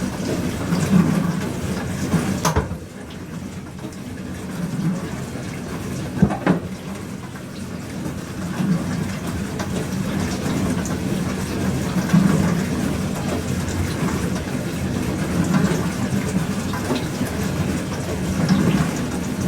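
Pro Action PRSLG96W slimline dishwasher running a wash: its pump humming and water spraying inside the tub, swelling and easing every few seconds. Two sharp knocks, about two and a half and six and a half seconds in.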